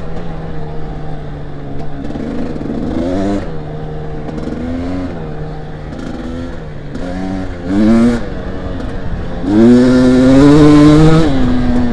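Dirt bike engine idling steadily, with another dirt bike's engine revving up and down in bursts as it approaches, loudest from about nine and a half seconds in.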